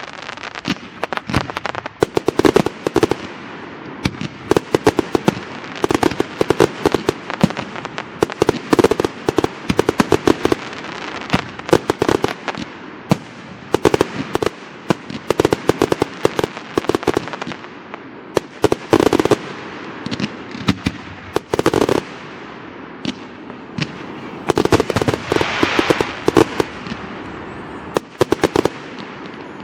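Fireworks display in full barrage: a rapid, unbroken run of sharp shell bursts and bangs over constant crackling, with louder clusters of bursts at several points.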